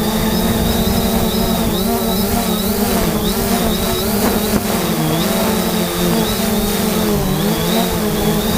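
3DR Solo quadcopter's motors and propellers running steadily, their pitch wavering up and down as the drone holds itself against strong gusting wind, with a thin high whine over wind noise on the microphone.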